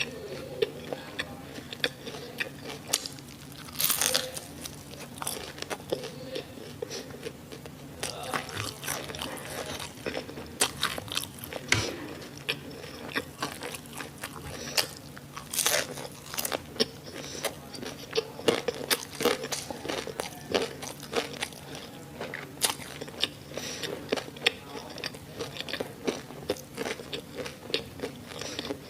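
Close-miked biting and chewing of crispy fried Korean-style sausage and onion: many sharp, irregular crunches, with a couple of louder bites.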